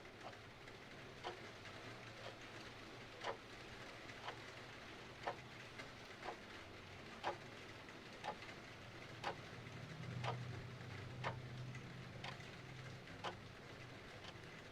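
Clock ticking about once a second, every other tick louder, over a steady hiss of rain. A low rumble swells briefly about ten seconds in.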